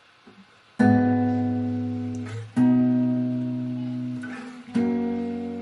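Acoustic guitar strumming chords and letting each one ring and fade: three strums about two seconds apart, the first about a second in.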